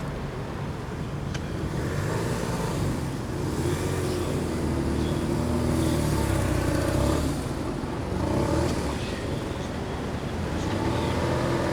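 Road traffic driving past: a steady rumble of car engines and tyres that swells in the middle.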